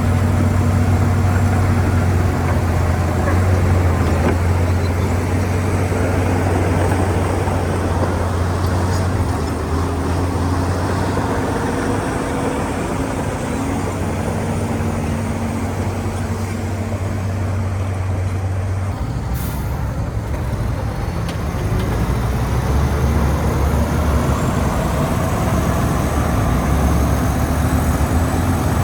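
Diesel engine of heavy earth-moving machinery running steadily with a deep drone; it eases off about two-thirds through, then builds again near the end.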